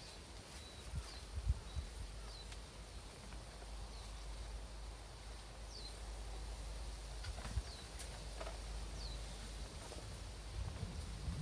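A small bird calling outdoors: short, high, downward-sliding chirps repeated every second or so. Under it runs a low rumble, with a few soft knocks about a second and a half in and near the end.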